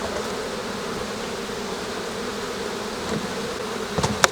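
Honeybees buzzing steadily around an open hive, a constant hum. Near the end, a quick run of sharp knocks and clatters as hive parts are handled.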